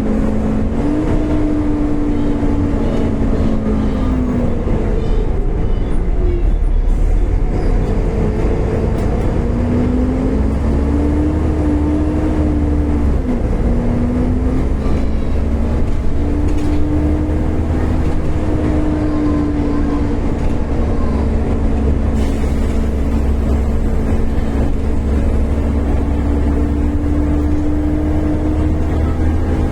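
Volvo B7TL double-decker bus on the move. Its drivetrain whine rises and falls in pitch several times as the bus speeds up and slows, over a steady low engine drone. This whine is the vacuum-cleaner-like sound behind the bus's nickname "Hoover".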